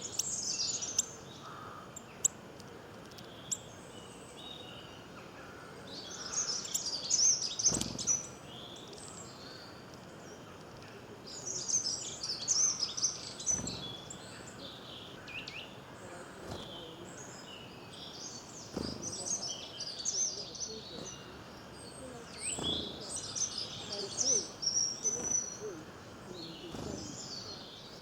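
Several small birds chirping and twittering in bursts of rapid high notes every few seconds, over a steady background hiss.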